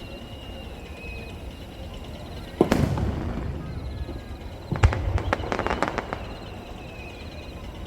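Aerial firework shells bursting overhead: a sharp boom about two and a half seconds in, then another near five seconds followed by a rapid series of crackling reports. Each burst trails off in a low rumbling echo.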